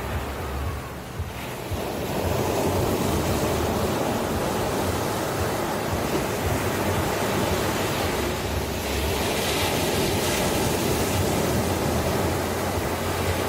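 Ocean waves breaking and washing on the shore, a steady surf noise that swells about two seconds in and grows brighter and hissier from about nine seconds on.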